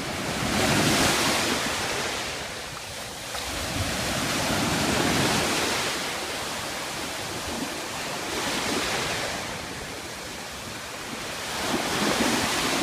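Ocean surf: waves breaking and washing in, swelling loudly about every three to four seconds, four times.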